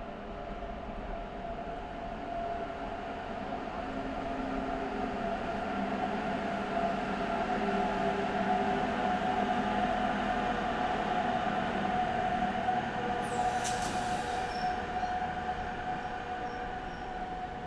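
Electric train running with a steady whine, building to its loudest around the middle and easing off near the end. A short sharp noise comes about 13 seconds in.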